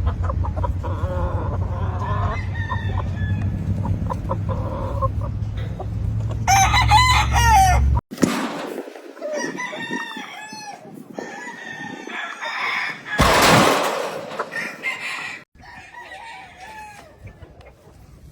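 Gamefowl roosters crowing, several crows in turn, with clucking between them. A steady low rumble runs under the first half. The sound cuts off abruptly twice.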